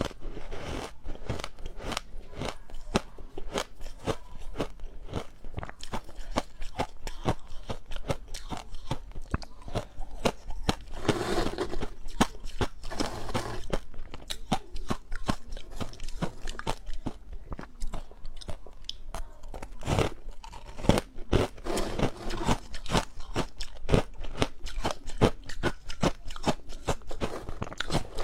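Ice being bitten and chewed close to the microphone: a dense, rapid run of sharp cracking crunches, with a couple of hazier, grinding stretches.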